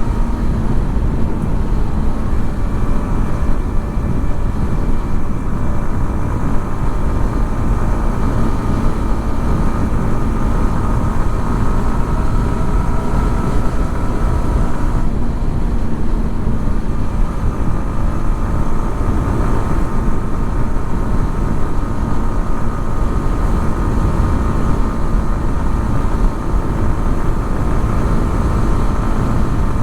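Yamaha XSR 155's single-cylinder engine running at a fairly steady speed over a dense low rumble. Its higher notes drop away for a moment about halfway through, then carry on.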